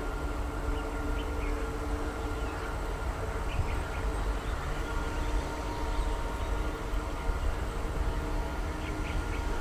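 Freight train running past: a steady rumble of wheels and wagons on the track, with faint steady tones over it.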